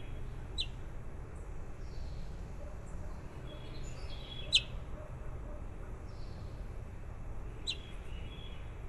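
A few short, sharp bird chirps, each sweeping quickly downward in pitch; the loudest comes about four and a half seconds in, with others about half a second in and near the end. A steady low rumble runs underneath.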